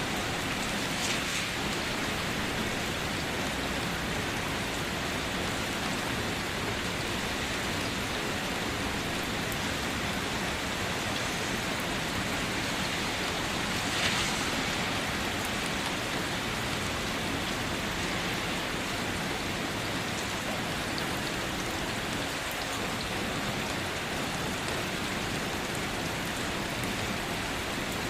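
Steady rain falling, an even hiss of raindrops. A louder splash of drops comes about a second in and again about halfway through.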